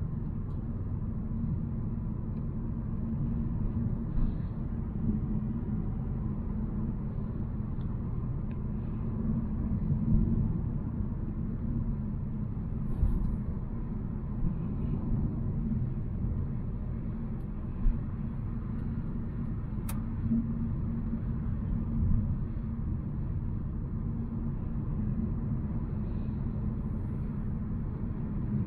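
Volvo C70 being driven: a steady low rumble of engine and road noise, with a few brief bumps and one sharp click about twenty seconds in.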